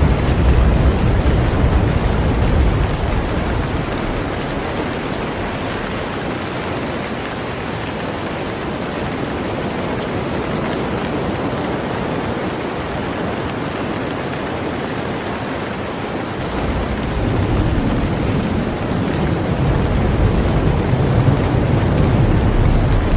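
Heavy rain falling on a boat, a steady dense hiss. A deep low rumble underneath fades out after the first few seconds and comes back about two-thirds of the way through.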